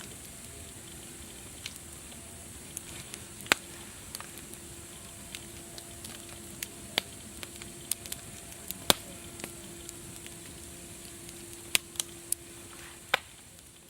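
Wood fire crackling: irregular sharp pops and snaps over a steady hiss, fading out near the end.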